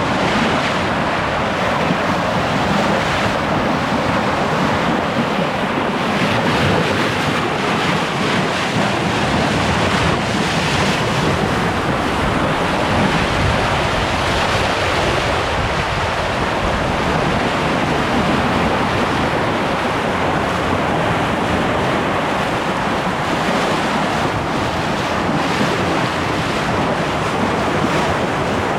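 Steady rush of wind and water on a sailboat under way: wind buffeting the microphone over the wash of waves along the hull.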